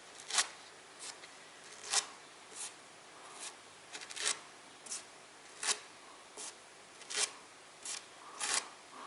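Putty knife scraping grout into the joints of a fireplace, in a series of short, quick strokes about one or two a second.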